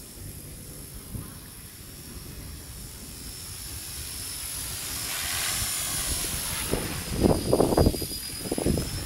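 Small electric RC helicopter (Blade 200 SRX) in flight, its motor and rotor making a steady high whine that grows louder about halfway through as it comes closer. Near the end, heavy rumbling buffets hit the microphone, the loudest sound here.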